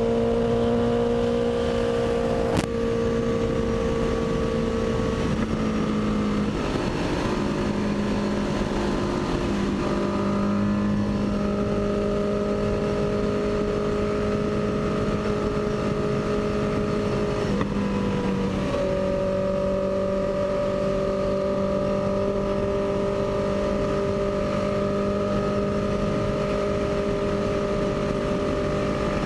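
Honda CB650F's inline-four engine running under way, its note holding steady for several seconds at a time and shifting to a new pitch a few times, over a steady rush of noise.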